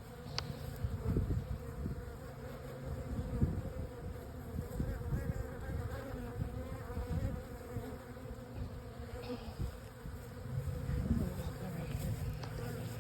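A swarm of honey bees buzzing steadily around a hive box, a continuous hum with a low rumble beneath it.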